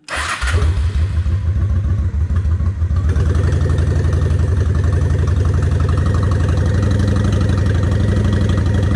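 Honda Shadow ACE 750 Deluxe's V-twin engine started on the electric starter, catching at once, then running steadily and settling into an even idle from about three seconds in. It is firing on both cylinders, the front cylinder that had not been firing, blamed on a partly clogged carburetor, now running.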